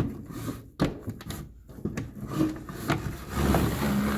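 Hard plastic toy dollhouse pieces being handled and pushed into place, with several sharp clicks and knocks amid rubbing and scraping of plastic on plastic.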